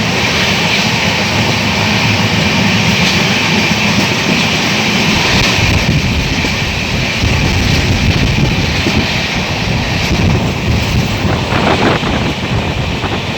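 Steady, loud rumble and rush of a moving vehicle.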